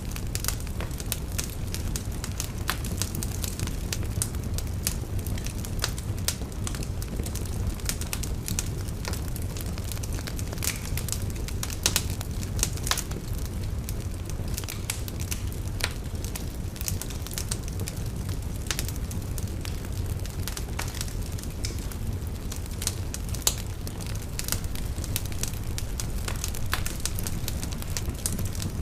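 Wood fire burning in a fireplace: a steady low roar of flames with frequent irregular crackles and sharp pops.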